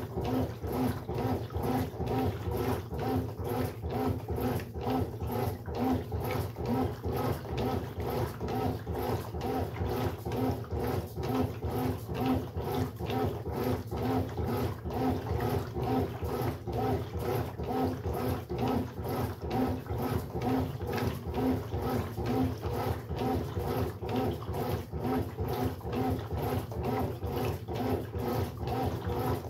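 Brastemp Sexto Sentido 8 kg washing machine running, its motor working the load with a steady growling pulse of about two beats a second.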